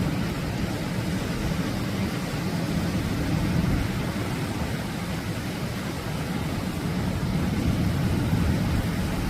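Atlantic surf breaking on the shore: a steady rushing noise with a deep rumble, swelling gently now and then.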